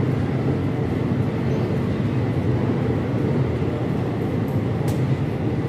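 Indian Railways passenger coaches rolling past a station platform as the train arrives: a steady low rumble of wheels on rail, with one brief sharp click about five seconds in.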